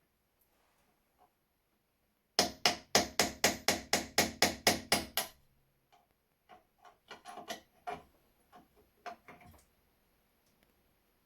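Hammer tapping on a punch, about a dozen quick strikes at roughly four a second, as seized parts of a rusty old gun are driven out. After this come lighter, irregular clicks and taps of metal parts being handled.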